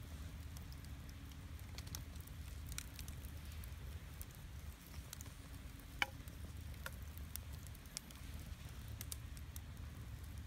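Wood fire burning in a stainless steel fire stand, crackling with scattered small pops and one loud snap about six seconds in, over a low steady rumble.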